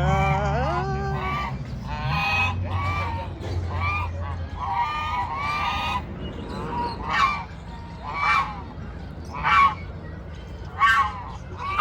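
Farmyard waterfowl calling: a dense run of overlapping calls for the first several seconds, then single calls about once every second or so. A low steady hum sits under the first few seconds.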